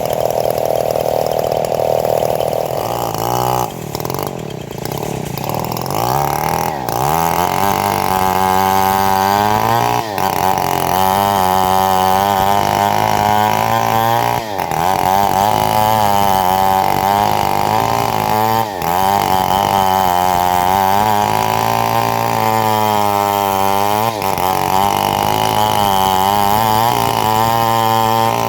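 Engine-driven homemade bandsaw mill running while sawing a log, its engine note wavering up and down under the load of the cut. The sound shifts about three to seven seconds in, and it drops briefly a few times.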